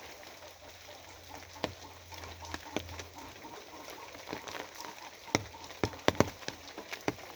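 Rain falling with a steady hiss, and single heavy drops striking a hard surface as sharp ticks at uneven intervals, the loudest cluster of them coming near the end.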